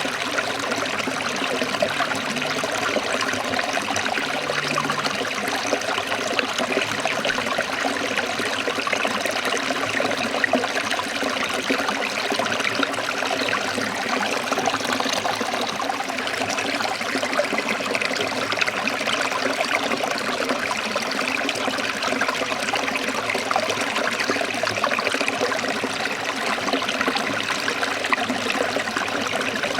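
Forest stream trickling and splashing over rocks, a steady, even rush of water.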